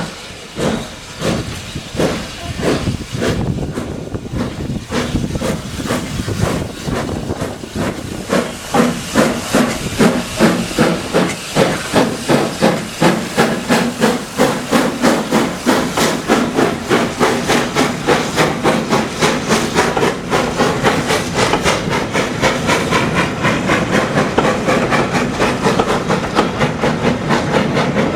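Steam locomotive pulling away: its exhaust chuffs start slow and spaced, then quicken steadily to several a second and grow louder, over a hiss of steam.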